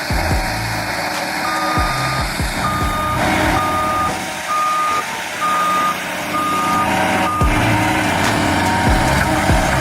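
Heavy forestry machine's reversing alarm beeping, about seven evenly spaced beeps a little under a second apart, stopping about three-quarters of the way through, over the steady running of the machine's engine.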